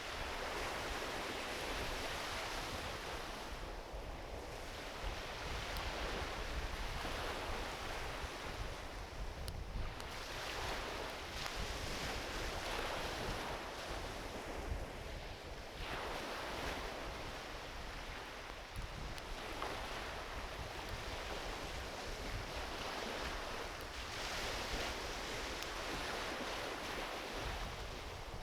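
Small ocean waves breaking and washing up a beach, each wave swelling and fading over a few seconds, over a steady low rumble.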